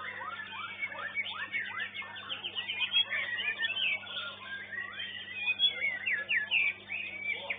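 Caged songbirds singing fast, sweeping, overlapping phrases, several birds at once, over a steady low electrical hum.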